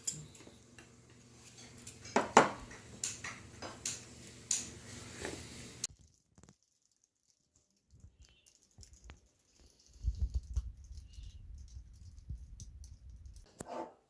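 Kitchen clatter of dishes and utensils being handled, with clicks and knocks. A steady low hum runs under it for the first six seconds and cuts off suddenly.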